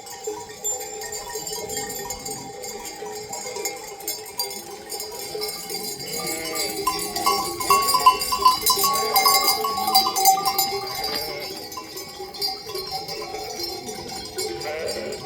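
Bells on a moving flock of sheep ringing and clanking together, with bleating mixed in. The ringing grows denser and louder in the middle, then thins out again.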